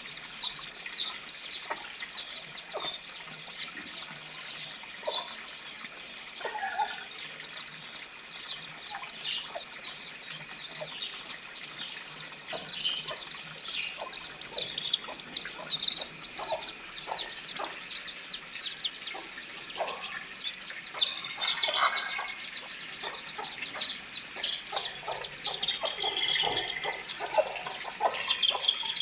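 Chickens calling: a constant run of many quick, high, falling peeps, with scattered lower clucks beneath them that grow busier in the second half.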